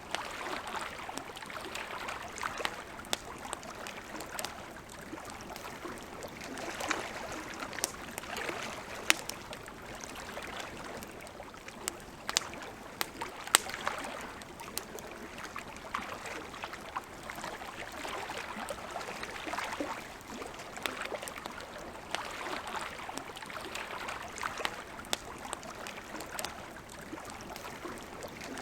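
Campfire crackling, with frequent sharp pops at irregular intervals over a steady wash of noise.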